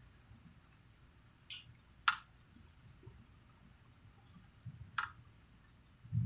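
Water dripping in sparse single drops, three sharp ones spaced about half a second and three seconds apart, over a faint low rumble.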